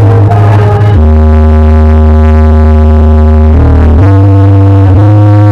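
Very loud DJ music from a carnival 'sound horeg' truck sound system: long held deep bass and synth notes that shift in pitch about a second in and again near the end.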